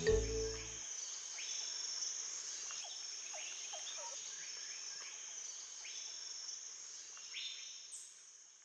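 Nature ambience: insects making a steady high buzz, with birds chirping over it about once a second. It fades out near the end.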